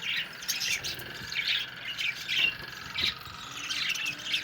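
Budgerigars chattering: a run of short, rapid squawks and chirps repeating several times a second.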